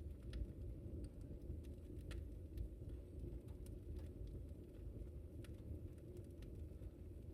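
Wood fire crackling in a fireplace: faint sharp pops and snaps at irregular moments over a steady low rumble.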